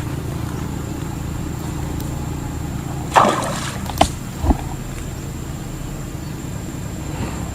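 Water splashing and sloshing: three short splashes in quick succession about three to four and a half seconds in, the first the loudest, over a steady low hum.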